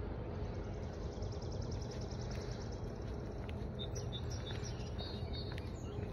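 Small birds chirping: a rapid trill of high, evenly spaced chirps, then several short clear chirps about four seconds in, over a steady low rumble of outdoor noise.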